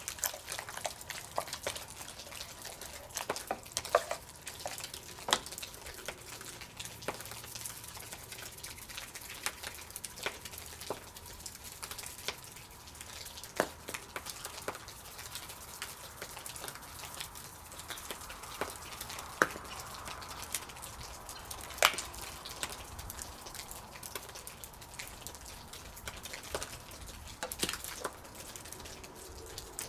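Campfire crackling, with irregular sharp pops and snaps over a faint steady hiss.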